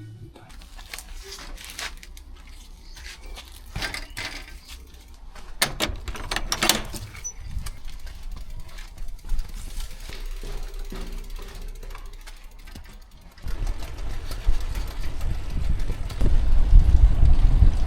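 Scattered clicks and knocks of things being handled and moved. About three-quarters of the way through, a steady low rumble starts, like wind on the microphone outdoors, and grows louder.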